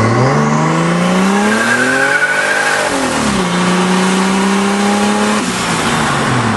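Turbocharged 2JZ-GTE straight-six in a Toyota pickup accelerating hard on a pull at about 9 psi of boost: the engine note climbs for about two and a half seconds with a high whistle riding on it, then falls away, holds steady, and drops again near the end.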